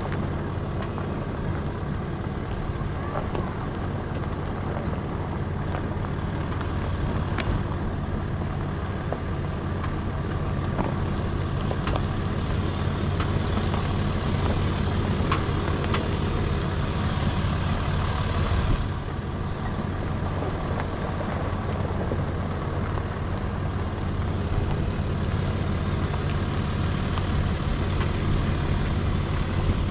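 Land Rover Discovery 4's engine running steadily at low revs, a continuous low drone with a short surge a little past halfway.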